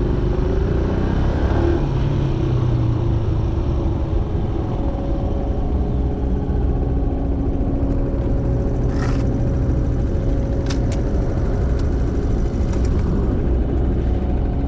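Kawasaki KSR110's single-cylinder engine running on the move, with road and wind noise. Its pitch eases in the first couple of seconds and then holds steady, with a few short ticks around the middle.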